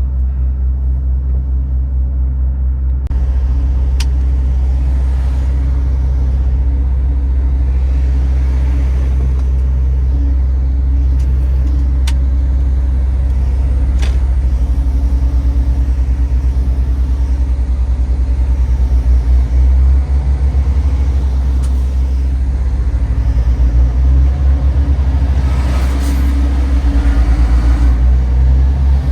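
MAN TGX 18.510 truck's 12.4-litre straight-six diesel running with road rumble: a steady, loud low drone with a few faint clicks over it.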